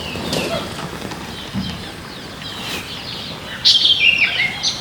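Small birds chirping: quick, short, falling chirps, with a louder run of them near the end.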